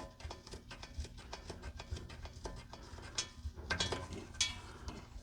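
Irregular light metallic clicks and taps, with a couple of short scrapes about three to four seconds in, from a turbo downpipe being handled and test-fitted against the frame rail. A faint steady hum runs underneath.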